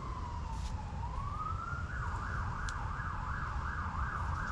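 Emergency vehicle siren in a slow wail, falling then rising, that switches about two seconds in to a fast warble of about three cycles a second. Low wind rumble runs underneath.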